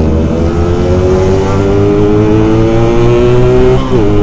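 Yamaha RX-King's single-cylinder two-stroke engine accelerating under load, its pitch climbing steadily, then dropping sharply near the end as it shifts up a gear and pulls again.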